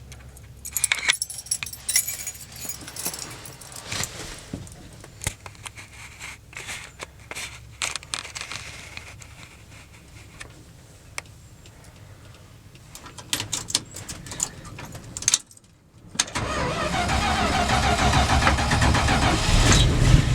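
Keys jangling and clicking for most of the stretch, then about four seconds from the end the 1972 Dodge D200 pickup's engine is cranked over on a cold start and keeps running loudly.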